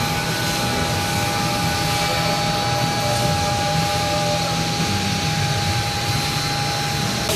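Steady machine noise with a constant high-pitched whine over a hiss, running at an even level.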